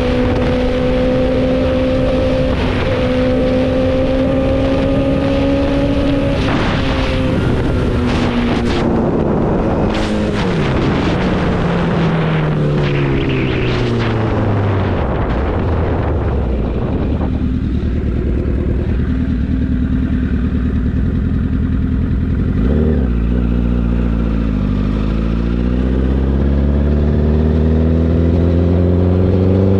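A road vehicle's engine holds steady cruising revs, then its note falls over several seconds as it slows. It runs low for a while, then climbs again as the vehicle accelerates, with road and wind noise underneath.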